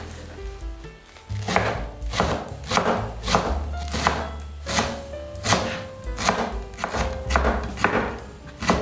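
Knife chopping on a cutting board in a steady rhythm, about a dozen cuts roughly two-thirds of a second apart, starting about a second and a half in, with soft background music underneath.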